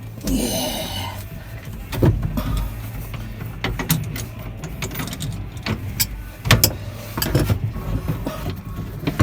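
Hand work on a boat's steering cable and helm hardware: irregular knocks and clicks, with a short rasping scrape near the start.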